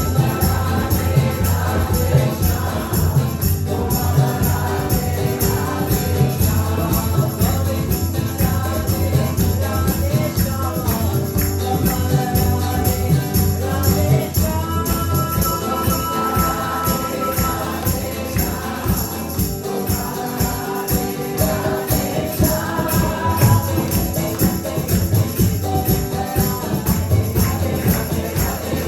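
A group chanting a Krishna kirtan in sung phrases over a fast, steady beat with jingling percussion.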